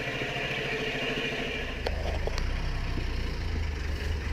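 Motorcycle engine idling, with a deeper pulsing low rumble coming in about a second and a half in and a couple of light clicks.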